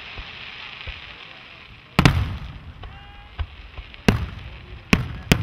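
Aerial fireworks shells bursting. A loud bang comes about two seconds in and three more follow near the end, each trailing off in an echo, over a faint steady crackle.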